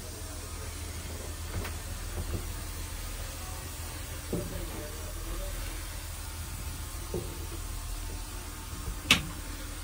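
Steady low rumble of a railway sleeper carriage, with a few light knocks and one sharp click about nine seconds in.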